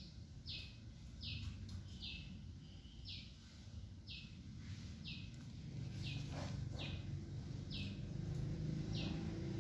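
A bird calling in the background, a short falling chirp repeated about once a second, while a low hum grows louder through the second half.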